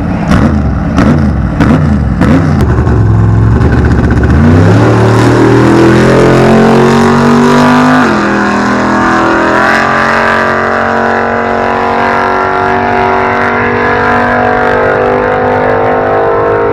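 A truck engine accelerating hard at a drag strip. It starts with a few seconds of sharp repeated pops, then climbs in pitch, drops suddenly at a gear shift about eight seconds in, and climbs again to a steady high-revving note.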